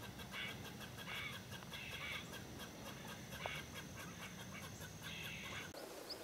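A bird calling in short, repeated calls, about one or two a second, which stop abruptly near the end.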